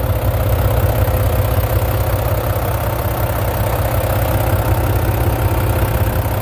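Volvo D13 inline-six diesel engine of a semi truck idling steadily, with the hood open: a rapid, even low rumble and a steady hum above it.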